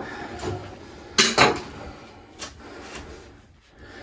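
Sharp knocks and clatter of things being handled at a hole cut in a drywall wall, with two loud knocks close together about a second in and lighter taps around them.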